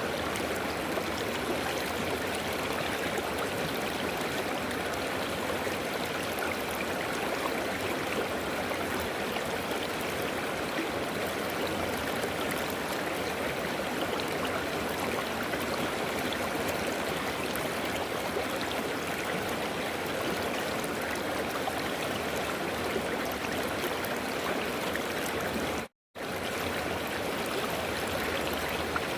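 River water flowing: a steady rushing, with the sound dropping out completely for a split second near the end.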